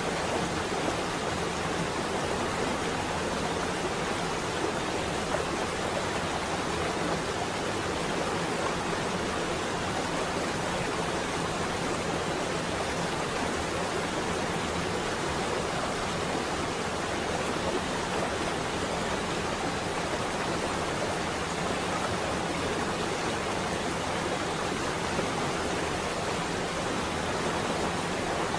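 Steady rain falling on a window: an even, unbroken hiss with no thunder.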